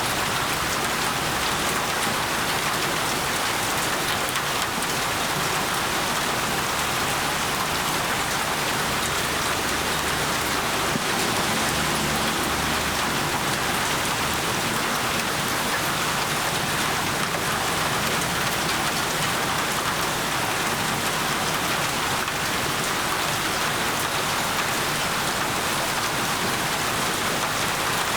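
Steady, heavy rainfall: an even hiss of rain on surfaces, with a faint low rumble about ten seconds in.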